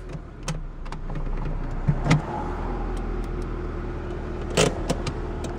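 1992 Nissan Stanza's 2.4-litre four-cylinder engine idling steadily, heard from inside the cabin, with a few sharp clicks, the loudest about four and a half seconds in.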